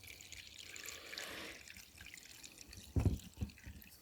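Water being poured through a thin cloth filter, trickling and dripping into a container below. A dull low thump comes about three seconds in.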